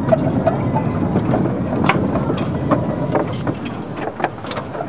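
15-inch-gauge miniature railway train running along the track: a steady rumble from the coach wheels, with irregular clicks and knocks from the running gear and rail joints.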